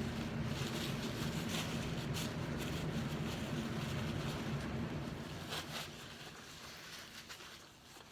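Chewing a large mouthful of burger, with scattered wet, squishy mouth clicks, over a steady low hum that fades about six seconds in.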